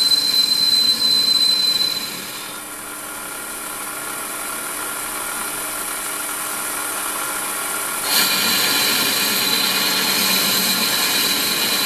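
Warco lathe running while a tool on the compound slide cuts a 45-degree chamfer on the top of a 30 mm bore. The cut gives a steady high-pitched squeal for about the first two seconds, and again from about eight seconds in. In between, only the lathe's running sound is heard.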